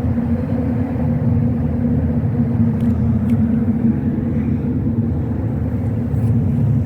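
Boat engine running at a steady speed: a continuous low drone with a constant pitch.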